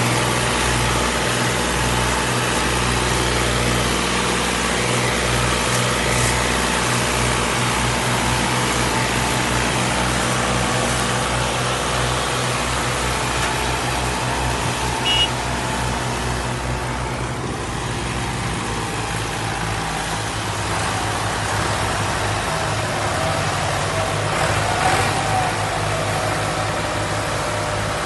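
Engine of heavy farm machinery running steadily. About two-thirds of the way through, its note drops and changes.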